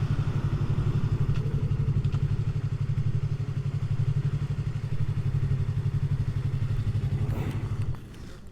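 Motorcycle engine idling with an even low pulse, stopping abruptly about eight seconds in.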